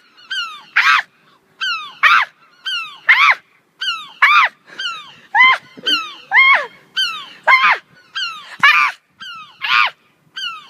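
Gulls calling over and over: a loud, arched call about once a second, with quieter, short downward-sliding calls in between.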